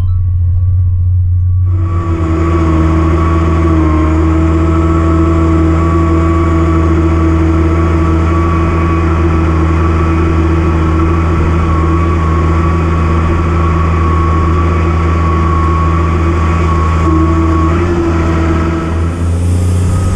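A 240-horsepower farm tractor's engine runs at a steady, unchanging pitch under load while pulling a field cultivator. A louder, broader rush of noise joins about two seconds in.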